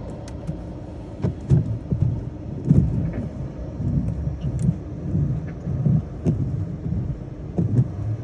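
Automatic car wash machinery working over a car: a steady low rumble with irregular heavier thumps and scattered sharp clicks.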